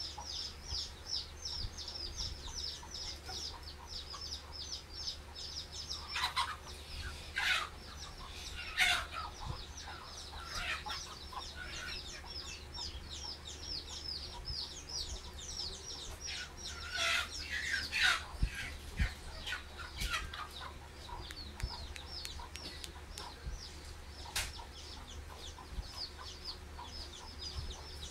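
Birds chirping in a fast, steady run of short high chirps, about three or four a second, with louder calls breaking in twice, about six and sixteen seconds in.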